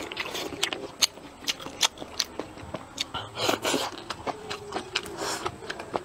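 Close-miked eating: a person chewing and biting food, with a run of sharp wet mouth clicks and smacks. About midway and again near the end come two longer, noisier mouthfuls.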